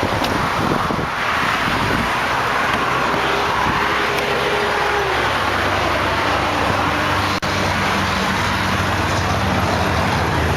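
Steady rush of motor-vehicle and road-traffic noise, with a low engine hum coming in about halfway through.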